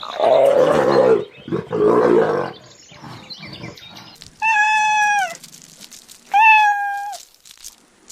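A cat calling: two long, low, drawn-out yowls, then two clear, high meows that hold steady and drop at the end.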